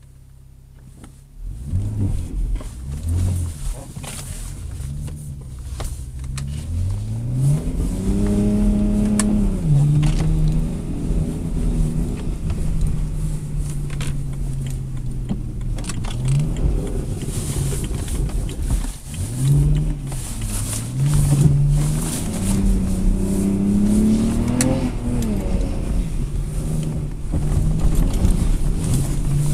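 BMW 335i's twin-turbo straight-six, heard from inside the cabin, revving hard as the car accelerates, its pitch climbing and dropping several times. It comes in loud about a second and a half in.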